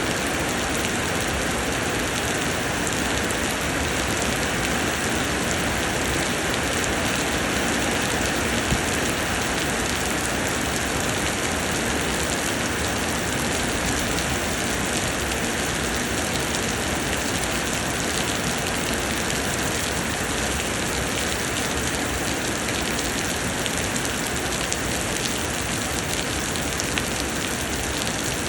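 Heavy summer rain pouring down steadily: a dense, even hiss of rainfall without let-up.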